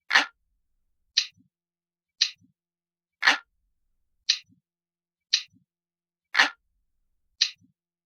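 Analog clock ticking in a steady loop, a sharp tick about once a second, every third tick fuller and lower.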